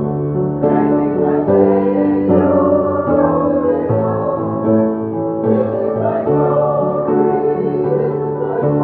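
Hymn music: a congregation singing with keyboard accompaniment, held chords changing about once a second.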